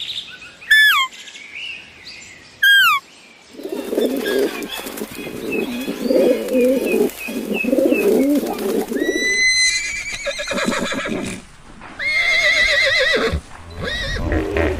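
A run of different animal calls one after another. Two short, sharp falling calls come near the start, then a longer stretch of low, wavering calls. Near the end there is a rising call and two bouts of higher, quavering cries.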